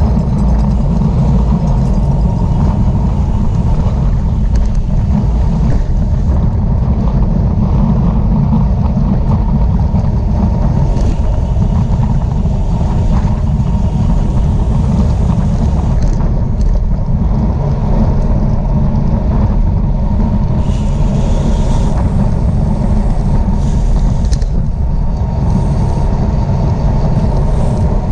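Heavy, steady wind rumble buffeting the microphone, with faint light clicks and ticks above it.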